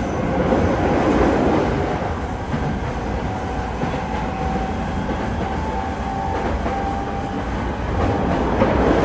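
Interior running noise of a JR East E217-series electric train, heard from inside a motor car: a steady rumble of wheels on rail and running gear at speed, with a faint steady hum from the traction equipment.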